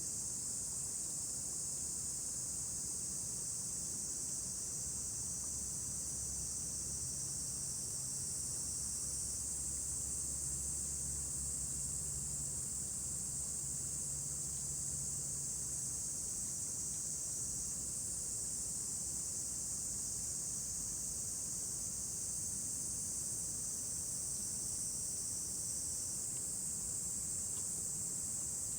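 A steady, high-pitched chorus of summer insects runs on without a break. A faint low hum passes underneath it for about ten seconds in the middle.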